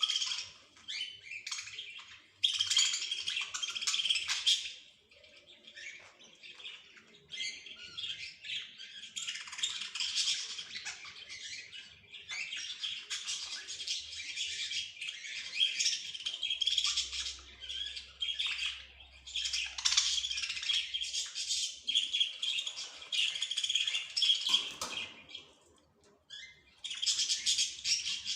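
Small birds chirping and singing in long, busy bouts of high twittering and trills, with two short lulls, one about a quarter of the way in and one near the end.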